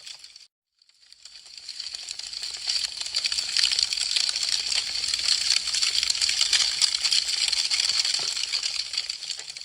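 Burning wood crackling, with dense, rapid pops and snaps. It cuts out to silence about half a second in, fades back up over a couple of seconds, then crackles steadily before easing off near the end.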